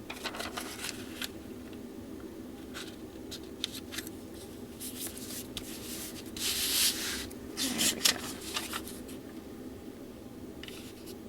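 Parchment paper squares rustling and crinkling as they are handled and laid over a diamond painting canvas, in irregular bursts, loudest about two-thirds of the way through, over a steady low hum.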